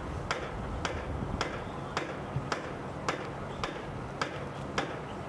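Sharp ticks or knocks repeating at an even pace, a little under two a second.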